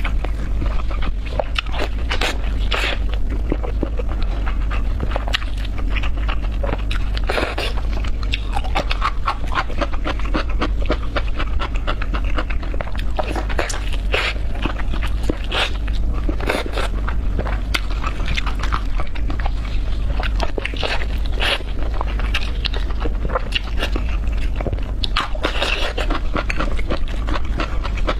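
Close-up chewing and biting on pork chops: continuous wet smacking and irregular crunching clicks, with loud breathing between bites.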